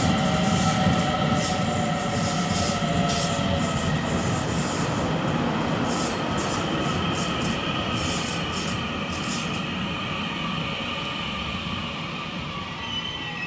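Taiwan Railways electric train moving through a station platform: a rumble of wheels with several steady squealing, whining tones over it and sharp hissing crackles at the top for the first two-thirds. Near the end a tone glides down in pitch as the sound slowly eases.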